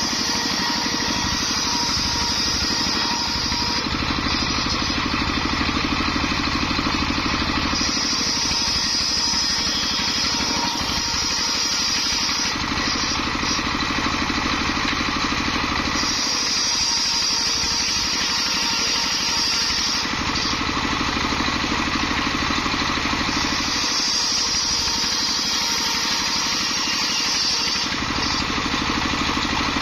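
Homemade engine-driven circular sawmill running steadily while ripping waru wood into battens. Its sound shifts back and forth about every four seconds, between a high whine and a lower, heavier running sound.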